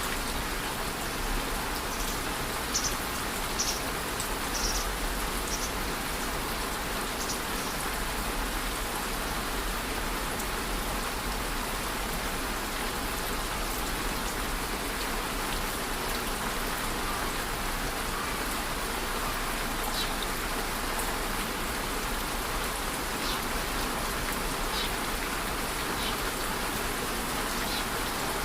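Steady rainfall, an even hiss of rain on surfaces with scattered individual drops.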